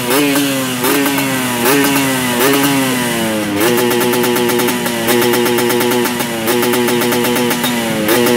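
Yamaha RX-King's two-stroke single-cylinder engine running through an aftermarket expansion-chamber exhaust and being revved in short throttle blips, each a quick rise in pitch that slides back down. The blips come about once a second at first; after about three and a half seconds the engine holds a steadier, higher note, blipped now and then.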